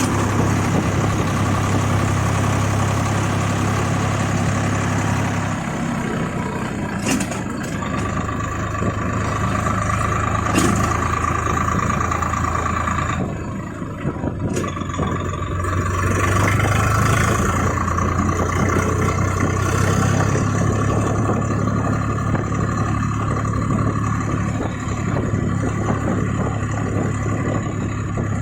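Swaraj 855 FE tractor's three-cylinder diesel engine running steadily. Its note shifts about six seconds in and dips briefly about halfway through.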